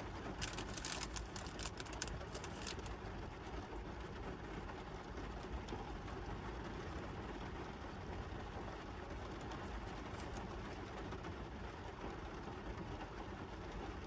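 Rain falling steadily on a car's roof, heard from inside the car, with a run of sharper drop taps in the first few seconds.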